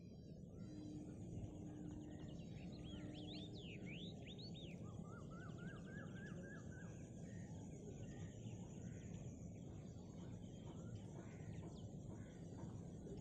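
Faint calls of several birds over a steady low background noise: quick curving whistled notes a few seconds in, then a run of about eight short rising notes, with scattered chirps after.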